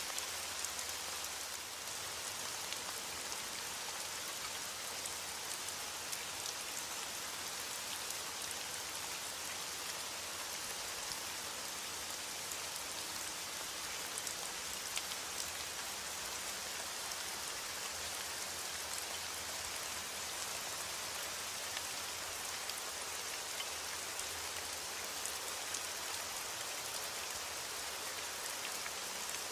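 Heavy rain on a window: a steady, even hiss of falling rain with faint scattered ticks of drops.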